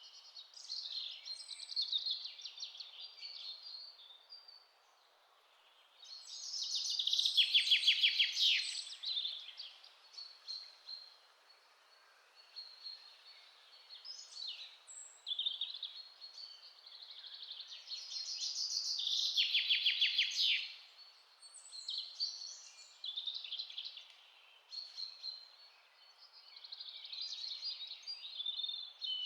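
Songbirds singing in a forest, several overlapping phrases of chirps and trills over a faint steady hiss. Twice a louder song swells up and ends in a rapid trill.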